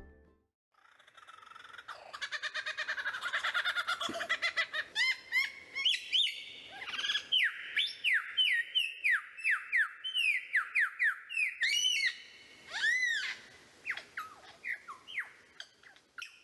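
A bird calling: a fast, rattling run of notes that builds up over the first few seconds into a long series of sharp, down-slurred calls, a few arched ones among them, thinning out near the end.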